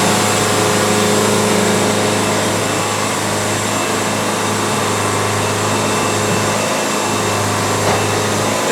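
Wood-Mizer LT70 sawmill running, a steady, even machine hum heard from inside the operator's enclosed cab.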